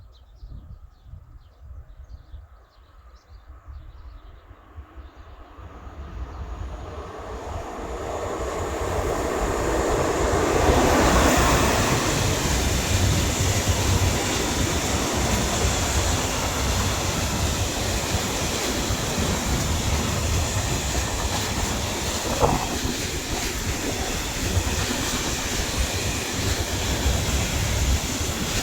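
A train approaching and passing on the line, rising from faint to a steady loud rush and rumble of wheels on rails from about ten seconds in, with some clickety-clack.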